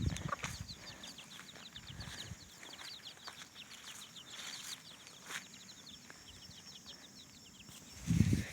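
Young chickens peeping: a rapid run of short, high, falling peeps that thins out after about six seconds, with a low bump near the end.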